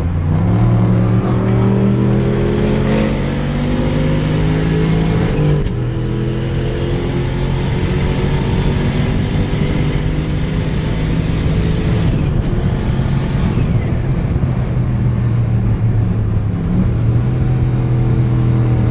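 Big-turbo BMW 540i accelerating hard, its revs climbing over the first few seconds. There is a brief break about five seconds in, then it runs on steadily at high revs.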